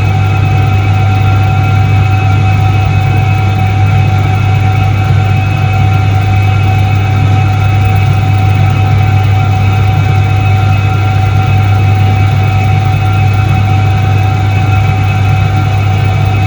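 Soviet Iset-3 washing machine from 1978 running: a steady low electric-motor hum with a thin constant whine above it, unchanging throughout.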